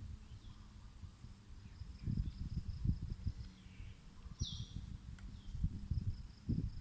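Outdoor nature ambience: insects buzz faintly in a pulsing high tone, and a short falling bird call sounds about four and a half seconds in. Irregular low rumbles and thumps from the moving microphone sit underneath and are the loudest part.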